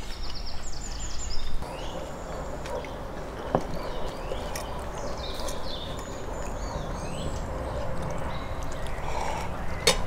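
Small birds chirping repeatedly over steady low background noise, with a sharp click about three and a half seconds in and another near the end.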